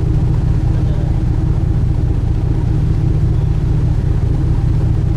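Sightseeing cruise ship's engine running steadily: a constant low drone with a few steady hum tones above it.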